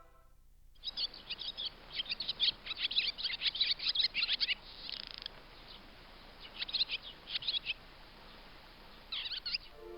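Birds calling in quick bunches of short, sharp chirps with pauses between, and a brief steady high note about five seconds in.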